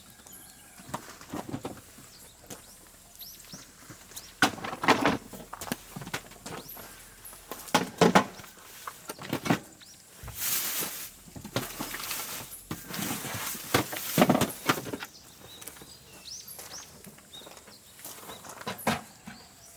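Slow, irregular footsteps with rustling, and faint high bird chirps between the steps.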